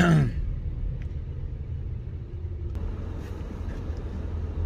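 Car being driven on a snowy road, heard from inside the cabin: a steady low engine and road rumble. A short falling sound comes right at the start.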